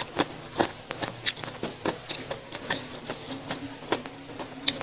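Close-miked eating: a scatter of short wet mouth clicks and chewing sounds as rice, noodles and raw lalapan are eaten by hand.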